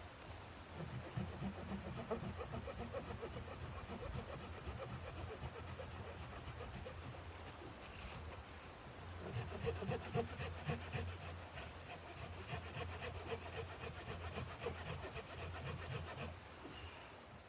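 Wood being cut with a hand saw in steady back-and-forth strokes, pausing briefly about halfway through and then resuming.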